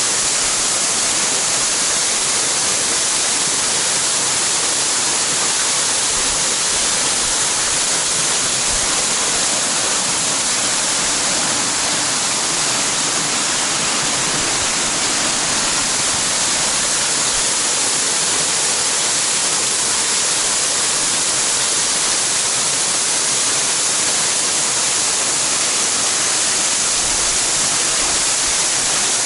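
Waterfall pouring into its plunge pool: a steady, loud rushing hiss of falling water with no change.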